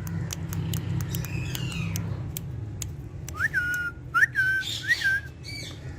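A pet parrot whistling: three short whistled notes in the second half, each a quick upward slide that settles on a held pitch, with a few sharp clicks and a sliding call before them. A steady low hum runs underneath.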